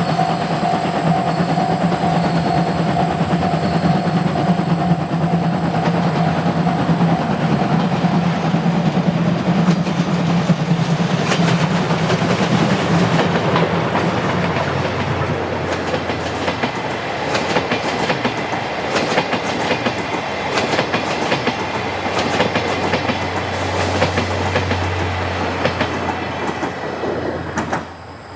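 Train of 12 series passenger coaches hauled by a C57 steam locomotive rolling past close by, its wheels clattering over the rail joints. The clatter is thickest in the second half and drops off sharply near the end.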